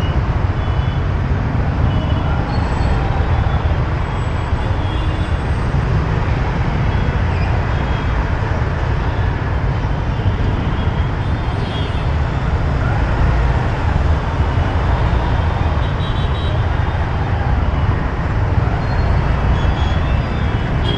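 Steady city traffic noise heard from a moving motorbike: engines and road noise with a heavy, unbroken low rumble.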